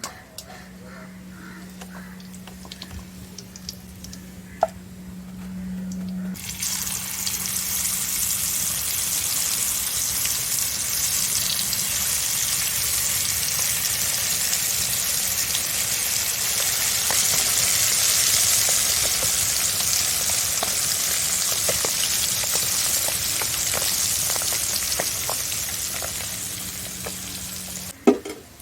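Chicken sausages deep-frying in hot oil: a loud, steady sizzle that starts abruptly about six seconds in and cuts off just before a sharp knock near the end. Before it there is only a low hum and a few light clicks.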